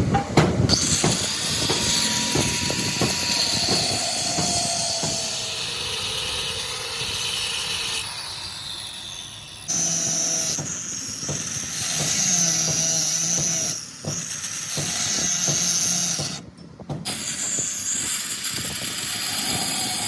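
Machine-shop noise from work on a cracked truck flywheel: a power tool or machine hissing with a high steady whine, plus scattered knocks. It comes in several short shots that cut in and out abruptly.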